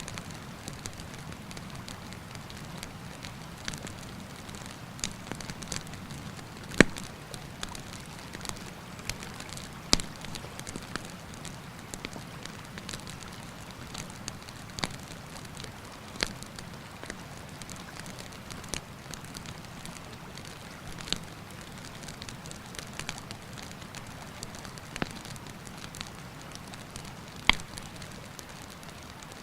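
Wood campfire crackling, with irregular sharp pops and a few louder snaps scattered through, over a steady rushing of a river.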